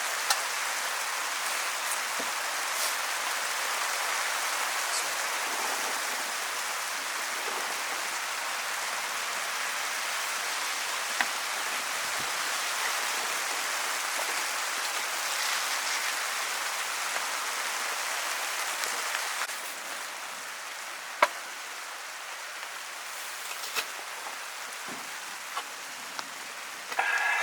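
Steady hissing sizzle with a few sharp pops, from meat roasting over a campfire. It drops a little quieter about two-thirds of the way through.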